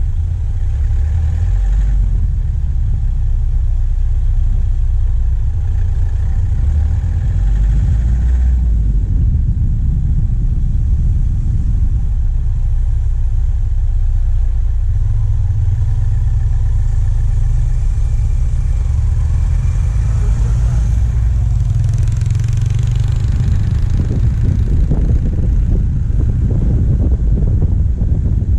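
Diesel engine of a vehicle driving along a forest track, heard from a bonnet-mounted microphone: a steady low rumble with road noise, growing rougher in the last few seconds.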